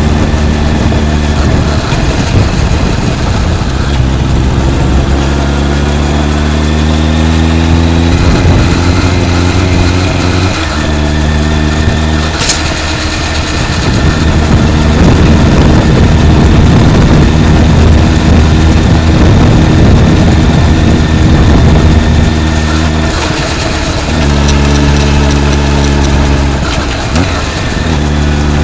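Honda CB motorcycle with a titanium full exhaust system running under way, its fairly subdued exhaust note climbing in pitch and dropping back several times, with plenty of wind noise over the microphone.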